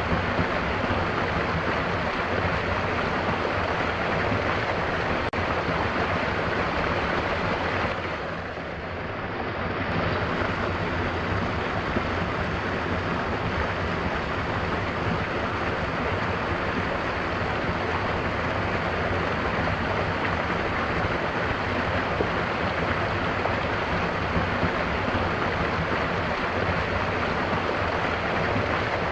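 Mountain waterfall rushing steadily, briefly softer and duller about eight seconds in.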